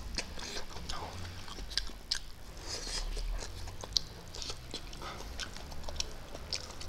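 A person biting and chewing fried whole prawns by mouth, with many short crisp crunches and wet clicks.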